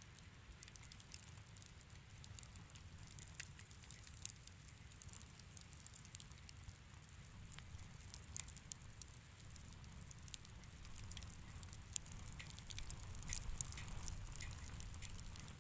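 Wood fire crackling in a fireplace: irregular small pops and snaps over a low steady rumble, growing busier near the end with one sharper pop about twelve seconds in.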